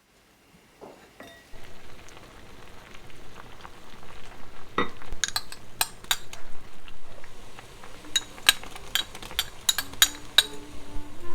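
Kitchen cooking sounds: a steady sizzling hiss, with utensils clinking and tapping against pots and dishes, the clinks coming thicker in the second half.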